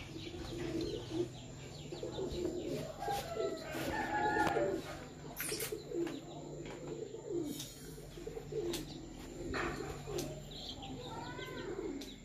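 Birds calling in the background: many short, low, repeated calls, with higher chirps near the end, and a few light clicks.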